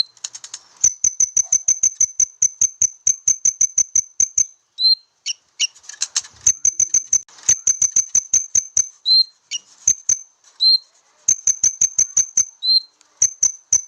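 Konin bird lure call: long bouts of rapid, sharp, high ticking notes, about six a second, broken by short pauses and a few single lower chirps.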